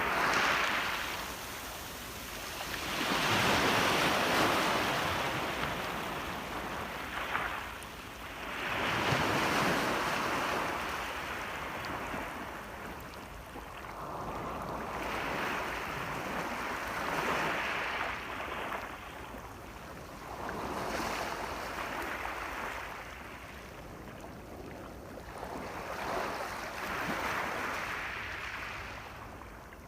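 Sea waves breaking and washing up a shore, the surf swelling and fading every four to six seconds.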